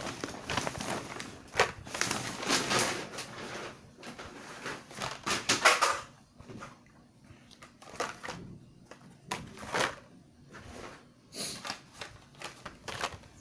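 Handling noises as purchased items are taken out and gone through: rustling for about the first six seconds, then a few scattered sharp clicks and knocks.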